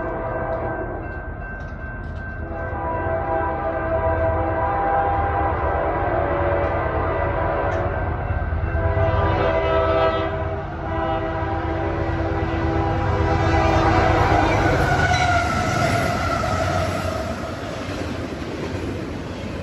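Freight train's locomotive air horn sounding a chord in long blasts, with short breaks, over a low engine rumble as the train approaches. The horn pitch drops as the locomotives pass. The double-stack container cars then go by with a steady noise of wheels on rail.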